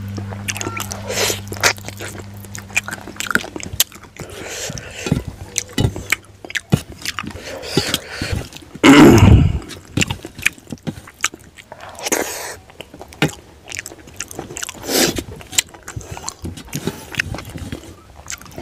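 Close-miked eating by hand: mouth chewing and wet lip smacks, a string of short sharp clicks, as rice and fried fish are mixed on a steel plate and eaten. About nine seconds in comes one loud, short burst, a throat-clearing sound or a knock on the microphone. A faint steady hum fades out in the first few seconds.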